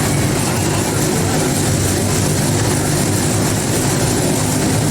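Five motorcycles circling together inside a globe of death, their engines blending into one loud, steady drone.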